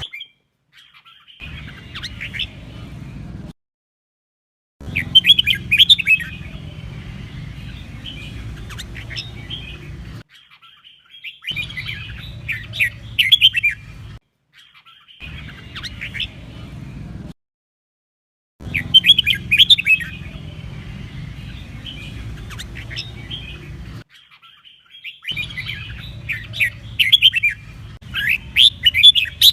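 Red-whiskered bulbul singing in bursts of quick, chattering phrases, with the loudest notes bunched in short clusters. The song stops dead several times in an edited, looped recording, and a low hum runs under each stretch of song.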